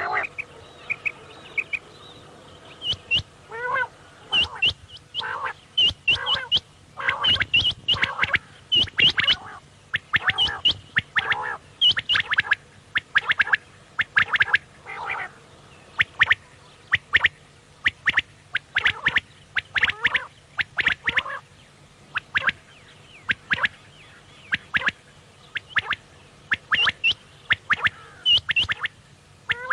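Quail calling over and over: short, sharp notes, often in quick clusters of two or three, repeated throughout.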